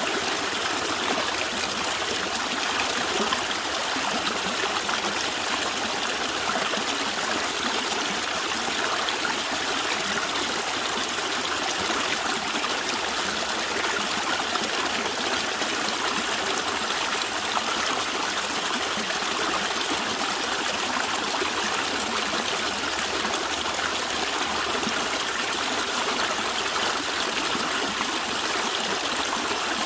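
A stream of water flowing and gurgling steadily, with a full, even rush.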